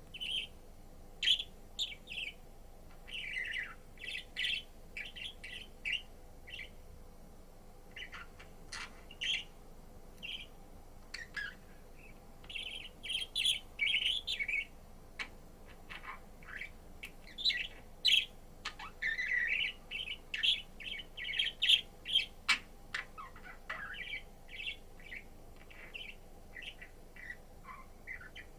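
Budgerigar chirping and warbling in quick runs of short, high chirps broken by brief pauses, over a faint steady hum.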